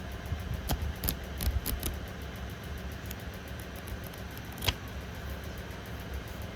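Tarot cards and their cardboard box being handled: a few light clicks and rustles, with the sharpest click about two-thirds through, over a steady low hum.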